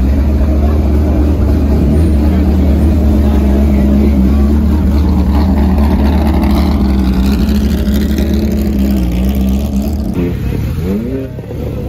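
Car engine idling loud and steady, then revving briefly with a rising pitch near the end.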